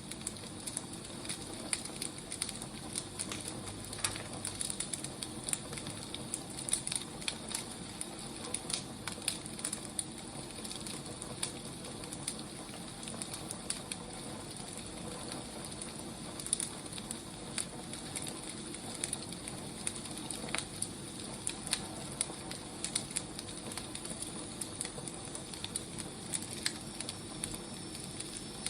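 Firewood burning: a steady hiss with frequent, irregular sharp crackles and pops.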